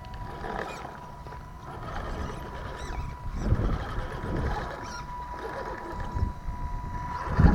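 Scale RC rock crawler truck running, its electric drive giving a steady high whine over a low rumble, with thumps about three and a half seconds in and near the end.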